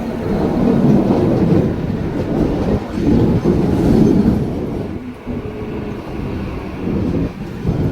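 Mumbai suburban local electric train running along the line: a loud, noisy rumble that swells twice and then eases somewhat in the second half.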